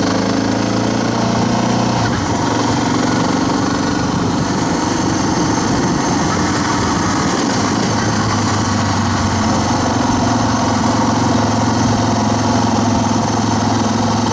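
Motorcycle engine idling steadily after a spring first start, with a shift in its tone about two seconds in.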